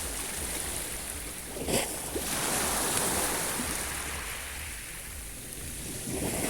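Sea waves washing onto the shore: a wave breaks sharply about two seconds in, its wash runs on and fades, and the next begins to rise near the end.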